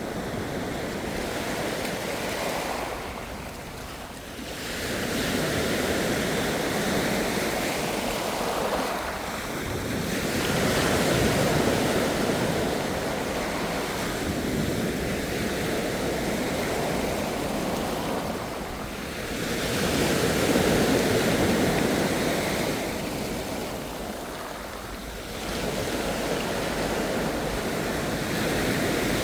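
Ocean waves breaking and washing up in slow swells every five or six seconds, with some wind on the microphone.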